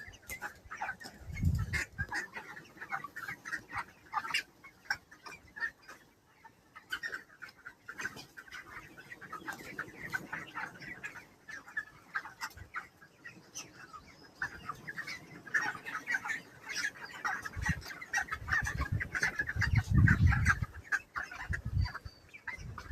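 A flock of 28-day-old broiler chickens calling and clucking, many short overlapping calls without a break. Low rumbles come in briefly about a second and a half in and again for a few seconds near the end.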